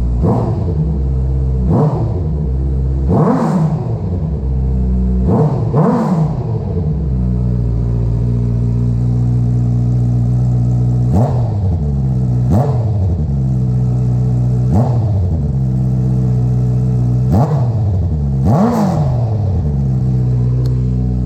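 2019 Honda CBR650R's inline-four engine idling through an Akrapovic full titanium race exhaust with no catalytic converter, blipped about ten times in short, sharp revs that climb and drop straight back to idle.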